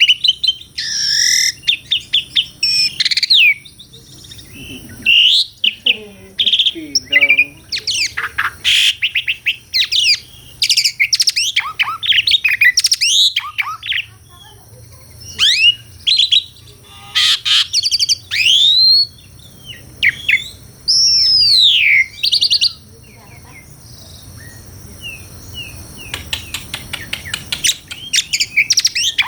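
Asian pied starling (jalak suren) singing a varied song of loud whistles that sweep up and down, mixed with fast runs of short chattering notes. It pauses briefly about two-thirds of the way through, then comes back with a quick run of repeated notes near the end.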